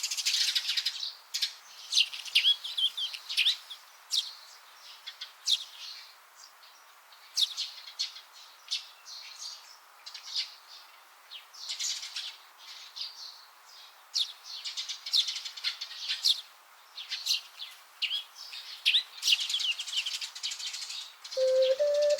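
Small songbirds chirping and twittering in quick, short calls that come and go. Near the end, the first soft melody notes of an ocarina come in.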